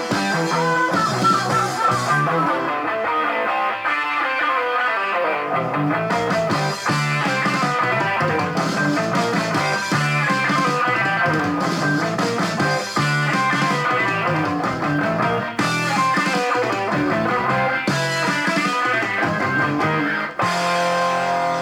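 Rock music: an instrumental passage led by guitar over bass, with no singing.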